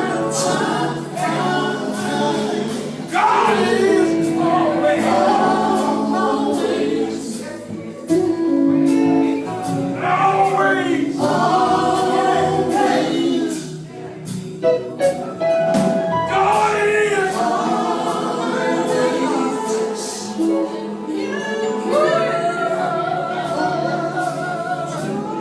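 Gospel group singing in harmony with instrumental accompaniment, voices rising and falling in sung phrases.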